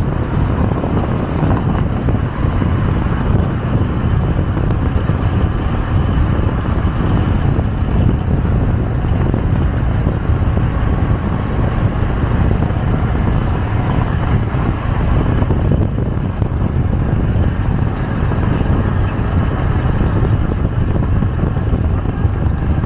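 Riding on a moving motorcycle: steady wind rush buffeting the microphone over the motorcycle's running engine and road noise.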